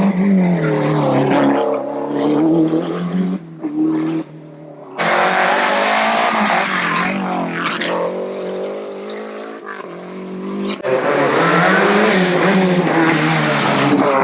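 Rally cars driven hard on a stage, engines revving up and falling back as they shift through the gears. The sound changes abruptly a few times, as if cut between different cars or passes.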